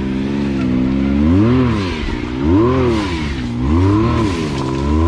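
Side-by-side UTV engine revving up and down in repeated throttle blips, about four rises roughly a second apart, as it is worked over rocks.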